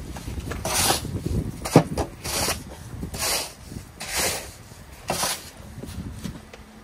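Deep snow crunching and scraping in repeated strokes, about one a second, with a sharp knock nearly two seconds in.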